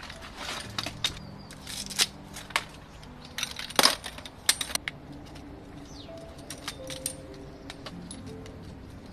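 Irregular sharp clicks and light knocks, several close together about four seconds in, over faint low sustained notes.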